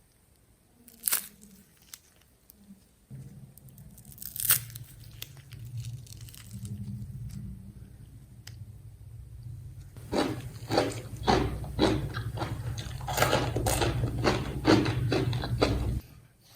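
Crunching and scraping of raw potatoes being prepared by hand, with a couple of sharp clicks early and a rapid run of crunchy strokes in the second half, over a steady low hum.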